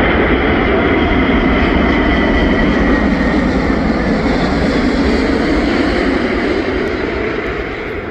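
Emirates Airbus A380-800 on final approach, the loud steady roar of its four jet engines with a high whine above it, easing off near the end as it passes.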